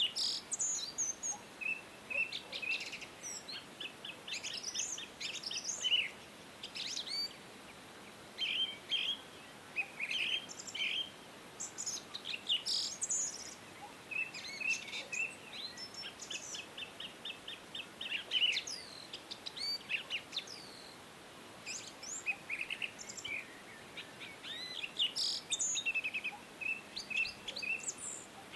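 Small birds chirping and twittering continuously, several calls overlapping, with quick trills of rapidly repeated notes now and then.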